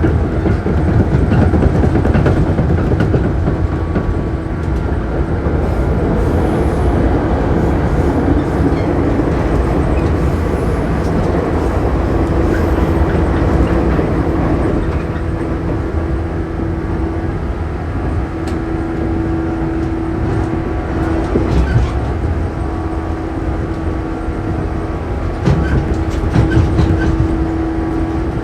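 Shinano Railway 115 series electric train running, heard on board: a loud, steady rumble of wheels on rail with a hum held at one pitch that comes and goes from about halfway through, and a few sharp rail-joint clicks near the end.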